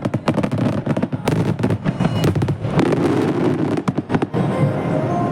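Aerial firework shells bursting in a dense finale barrage, many sharp bangs and cracks overlapping one another with no pause.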